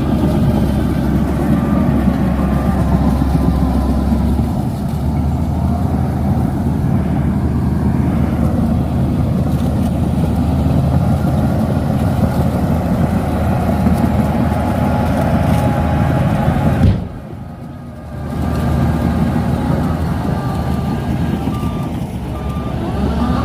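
Shantui DH17C2 bulldozer's diesel engine running steadily as the machine works. The sound drops away sharply for about a second roughly three-quarters of the way through, then comes back.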